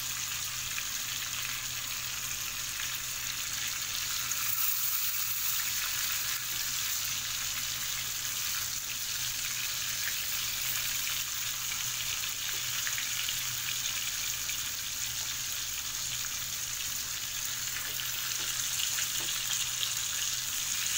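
Masala-coated snake gourd pieces shallow-frying in oil in a pan over a low flame, a steady sizzle; they are being half-cooked before stuffing.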